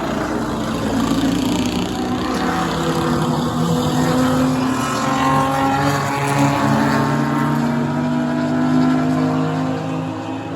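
Engines of several street cars racing together in an enduro on a short oval track. Their pitches rise and fall as they pass, and the sound swells about a second in and eases near the end.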